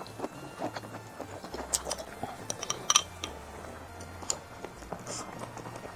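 A person chewing a mouthful of hotpot food, with scattered small wet clicks and ticks; the sharpest, loudest one comes about three seconds in.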